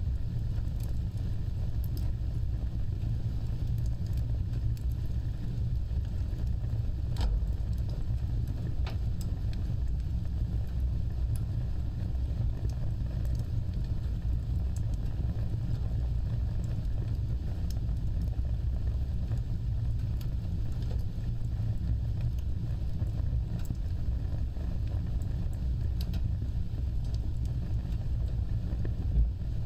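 Fireplace fire burning with a steady low roar of flames, scattered crackles and one louder pop near the end.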